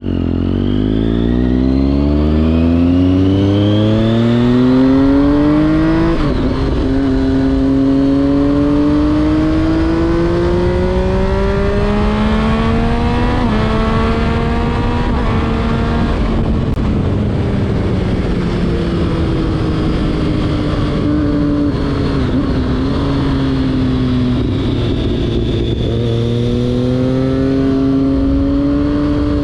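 2011 Triumph Street Triple 675's inline three-cylinder engine through an SC Project exhaust, heard onboard while riding. The note climbs steeply for about six seconds, drops sharply at an upshift, then rises slowly, falls away in the middle as the throttle eases, and climbs again near the end.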